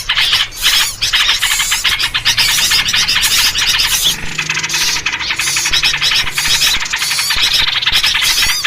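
Loud, dense, agitated chattering of many small songbirds calling rapidly over one another without a break, a bird-lure recording in which yellow-vented bulbul (trucuk) calls figure.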